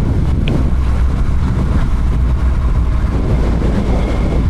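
Motorcycle engine running at road speed, with heavy wind rush over the rider-mounted microphone.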